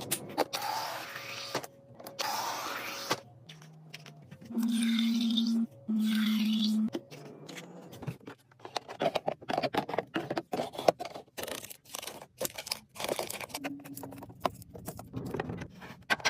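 Packaged snacks and drinks being handled and set in place: irregular clatters, clicks, scrapes and packaging rustles. Two steady low hums of about a second each come near the middle, with a shorter one near the end.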